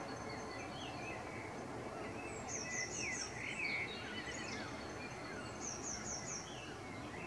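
Several wild birds chirping and calling over a steady low background noise. One bird gives a quick run of four high notes, twice.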